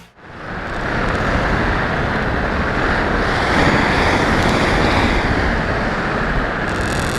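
Wind noise roaring steadily on a small action camera's microphone, a dense rumble with no clear engine or propeller tone.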